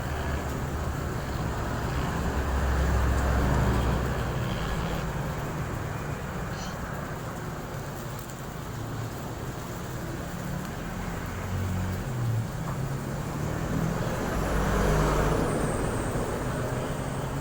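Road traffic: motor vehicle engines rumbling, growing louder as vehicles pass about three seconds in and again near the end.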